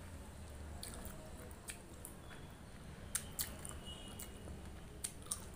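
Close-miked mouth sounds of eating curry-soaked moringa drumstick by hand: wet chewing and squishing, with sharp lip and tongue smacks, a cluster of them past the middle and two more near the end.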